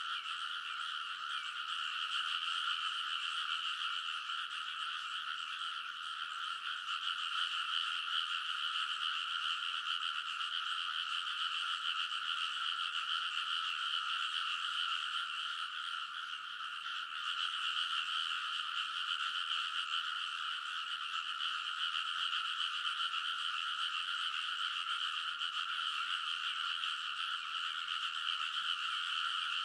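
A dense chorus of many rice-paddy frogs calling at once: continuous overlapping croaking with no breaks.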